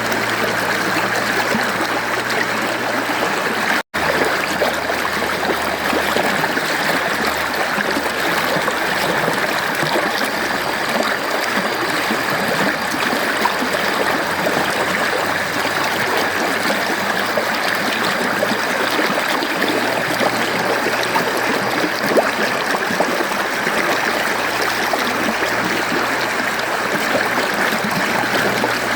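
Mountain stream flowing steadily, an even rush of water, with a momentary cut to silence about four seconds in.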